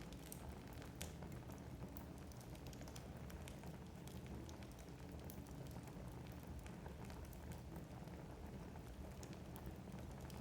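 Wood fire burning in a fireplace, crackling: scattered, irregular sharp pops and snaps over a soft low rumble of the flames, with a slightly stronger pop about a second in.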